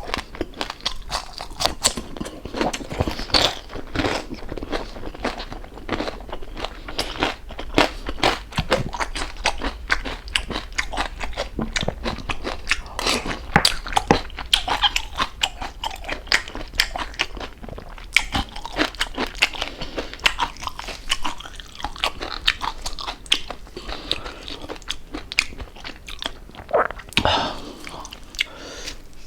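Close-miked chewing of crispy fried pork jowl: a dense, irregular run of crisp crunches as the crackling skin breaks between the teeth.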